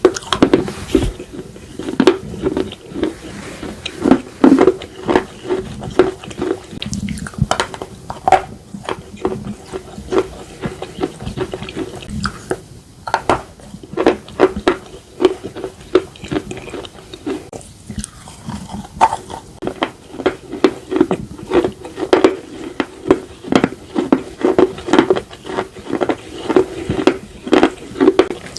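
Close-miked biting and chewing of slate pieces: a dense run of sharp crunches, several a second, with two short lulls along the way.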